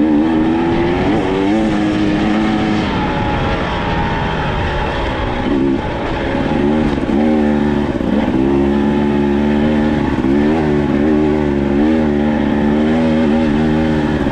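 Dirt bike engine being ridden, its revs rising and falling with the throttle, with brief dips in pitch about six and eight seconds in.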